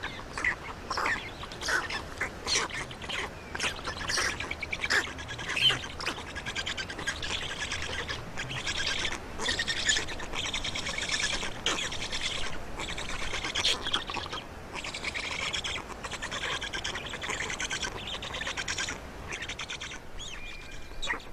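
Birds chirping and calling, many short calls one after another, with a denser spell of rapid trilling calls in the middle.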